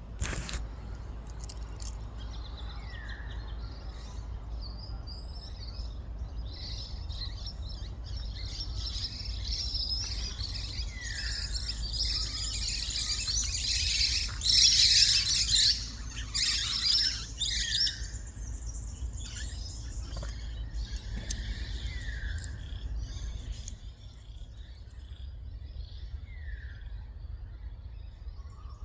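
Laughing kookaburras and a flock of small parrots screeching as it passes overhead, the dense chatter building to its loudest about halfway and dying away soon after. A short falling call from another bird repeats every few seconds.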